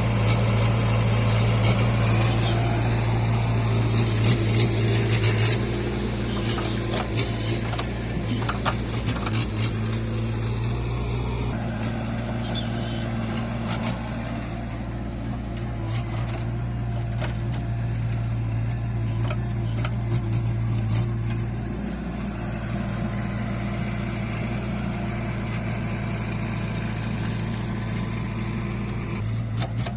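Heavy diesel engine running steadily, with its note and level shifting a few times and occasional knocks and rattles.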